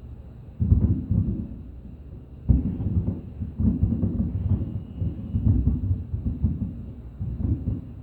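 Fireworks bursting overhead: a sudden deep boom just after half a second in and another at about two and a half seconds, then continuous low rumbling from further bursts.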